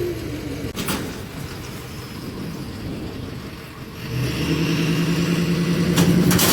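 Compact tractor's diesel engine dropping from high revs at the start, running lower for a few seconds, then revving back up and holding steady about four seconds in, with a few sharp knocks.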